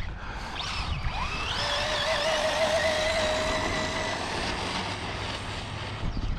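Electric RC car motor whining under throttle: the pitch rises about a second and a half in, holds steady for a few seconds, then fades, over a steady hiss.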